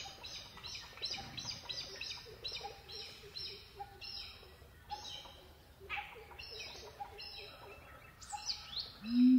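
Birds chirping in a quick, even series of short high calls, about three a second, with a lower short note about once a second. Near the end a loud, low, steady tone starts.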